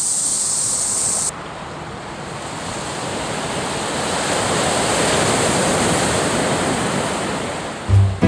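A waterfall's steady rushing water. A thin high hiss over it cuts off sharply about a second in, then the rush swells and eases off again.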